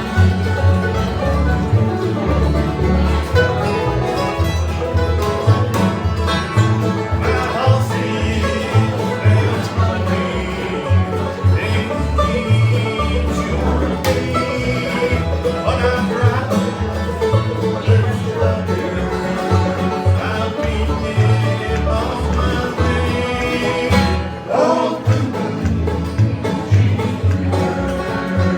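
Bluegrass band playing an instrumental break, with picked banjo and guitar over a steady bass beat.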